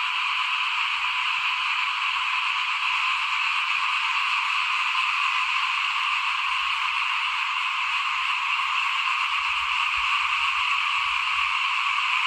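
A dense chorus of small frogs (khiat) calling together, a steady unbroken mass of high-pitched calls with no single voice standing out.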